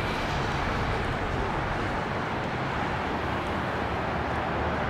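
Steady jet engine noise from a Boeing 767-300ER airliner on its landing approach, a broad even rushing sound without rises or breaks.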